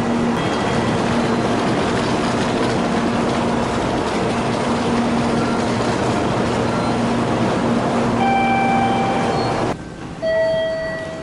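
Electric train running on the Iida Line, a loud steady rumble of wheels and motors with a brief high squeal about eight seconds in. The noise cuts off suddenly near the end, followed by a short clear tone.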